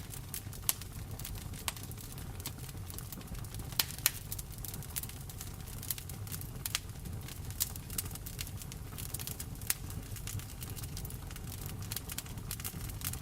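Wood fire crackling in a fireplace, with irregular sharp pops and snaps over a steady low rumble, and rain falling with it.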